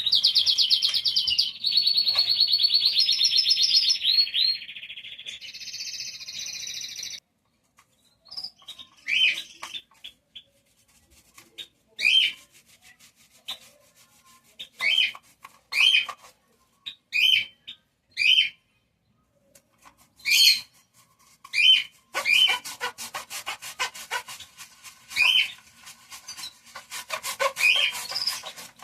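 Caged songbirds singing: a long, loud warbling trill at first, then short high chirps about once a second. About two-thirds of the way through, a fast rasping scrape joins the chirps.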